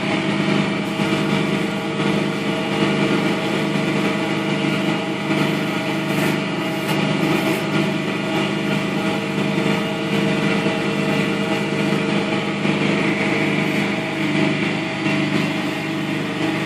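Wood lathe motor running steadily with 240-grit abrasive held against the spinning oak workpiece: a steady hum under an even sanding hiss.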